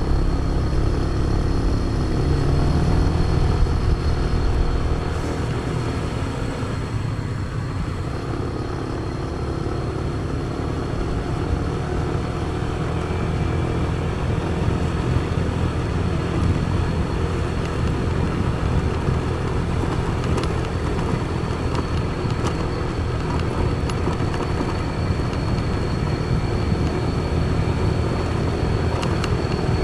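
Motor vehicle riding at road speed: a steady deep engine and wind-and-road rumble, with a thin, steady high whine over it.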